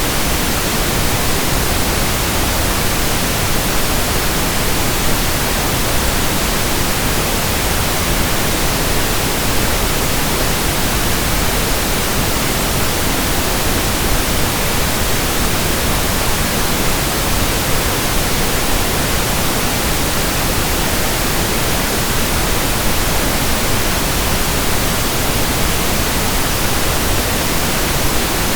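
Steady, unchanging pink noise: an even hiss spread across all pitches, with no other sounds.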